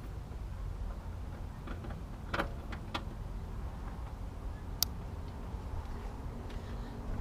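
Three short clicks over a low steady rumble while a car's fog-light relay circuit is tried after a makeshift repair of the relay's burnt contact; the fog lights still do not work.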